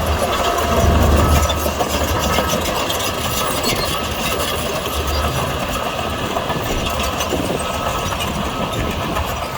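Heavy diesel earthmoving machinery running steadily, with a low engine rumble that swells about a second in and again around five seconds.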